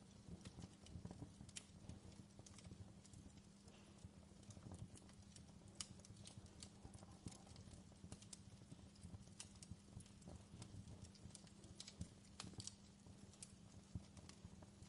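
Fireplace fire crackling quietly: irregular small pops and snaps over a faint, steady low hum.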